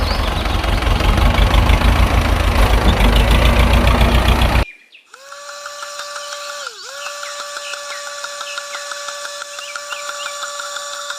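A small electric motor, the drive of a DIY mini chaff cutter, runs with a loud harsh rattling noise for the first half, then cuts abruptly to a steady high whine. The whine briefly drops in pitch and recovers about two thirds of the way through, as if the motor is momentarily loaded.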